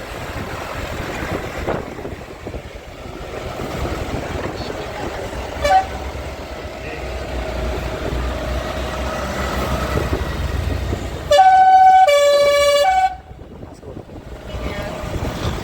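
Vehicle engines running as decorated vehicles pass, with a short horn toot about six seconds in. Near the end a loud horn sounds for under two seconds, stepping from a higher note down to a lower one and briefly back up.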